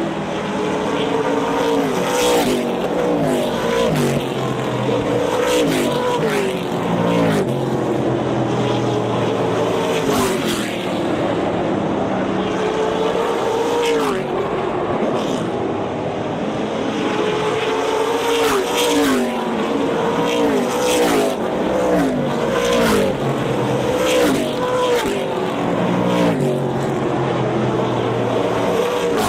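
Several short-track race cars running hot laps on an oval. Their engines rev up and back off over and over, the pitch repeatedly rising and falling as the cars accelerate and pass.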